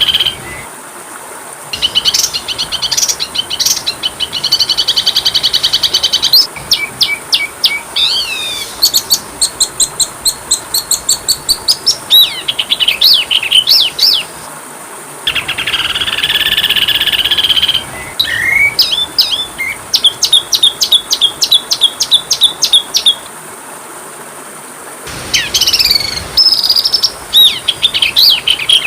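Small songbirds singing in fast trills and rapid strings of repeated chirps, phrase after phrase with short pauses between, over a faint steady high-pitched whine. It is a masteran training track of small-bird song of the kind played to oriental magpie-robins to teach them new phrases.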